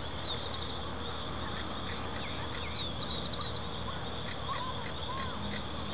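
Birds calling: scattered short chirps and small rising-and-falling whistles over a steady background hiss.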